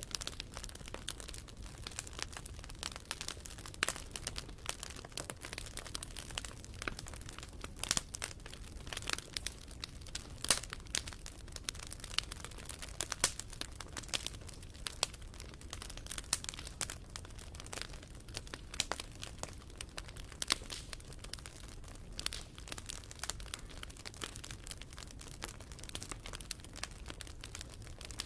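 Wood fire crackling, with frequent irregular sharp pops and snaps over a soft steady background.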